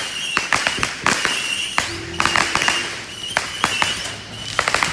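Chameleon color-change firework going off with rapid, irregular sharp pops and crackles, several a second, and a short high tone recurring between them.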